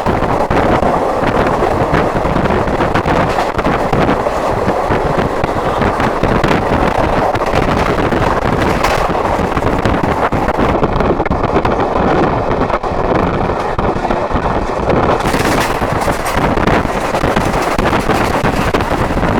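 Moving train heard from an open window: a steady loud rush of running noise with wind buffeting the microphone. For about four seconds in the middle the hiss turns duller and faint steady tones come through.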